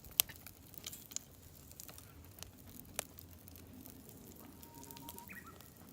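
Meat sizzling on a charcoal fire, with scattered sharp pops and crackles. A short faint tone sounds near the end.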